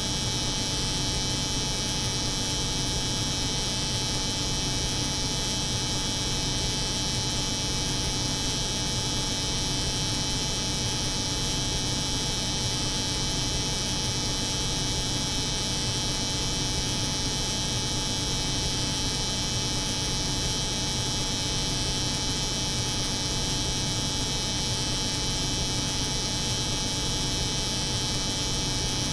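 Layered steady hum of a cold room's refrigeration machinery together with the continuous buzz of an electric hair clipper.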